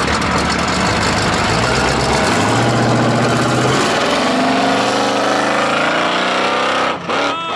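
A car engine running loud at high revs with a rapid pulsing exhaust note; over the last few seconds its pitch climbs slowly.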